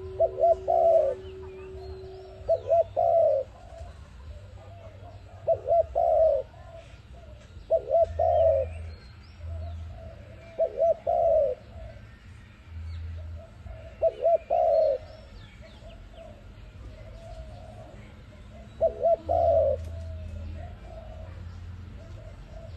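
A dove cooing over and over, each phrase a few quick notes running into a longer held coo, with faint chirps of small birds in the background.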